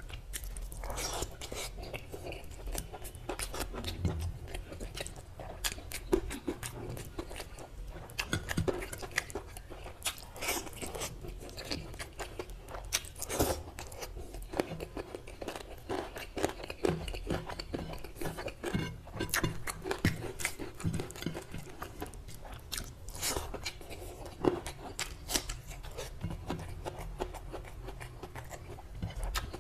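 Close-miked chewing of mutton curry and rice eaten by hand, with many irregular sharp mouth clicks.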